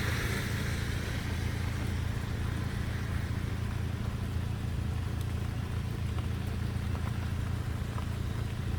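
Steady low engine drone. A hiss fades out over the first second or two, and a few faint ticks sound above the drone.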